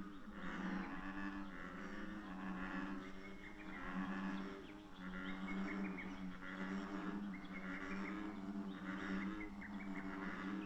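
A low droning sound with one steady pitch, repeating in long stretches broken every second or two, over a higher hissing, crackling background.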